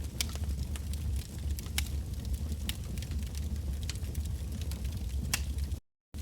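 Wood bonfire burning: a steady low rumble of flame with frequent sharp crackles and pops of the logs. The sound cuts out completely for a moment near the end.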